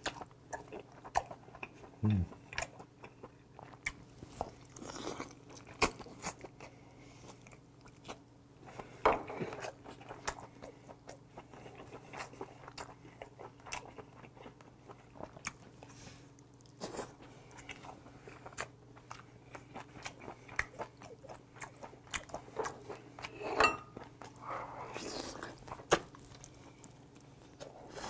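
Close-miked chewing of boiled monkfish (agwi suyuk) torn off the bone with the teeth, with irregular soft clicks and mouth noises and a few louder bites.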